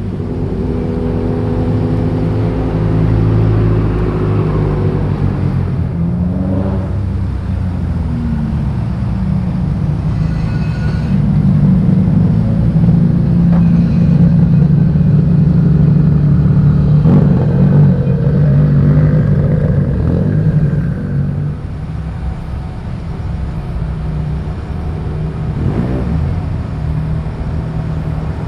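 Car engines running and revving as cars drive off one after another, rising and falling in pitch, loudest about halfway through.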